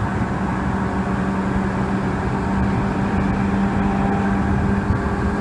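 Seibu Railway 2000 series electric train running, heard from on board: a steady low rumble of wheels and running gear with a steady hum underneath. This is the train's normal running sound, with no abnormal noise.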